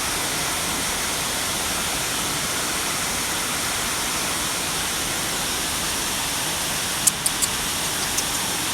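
Waterfall: a steady, even rush of falling water. A few short, sharp high ticks come near the end.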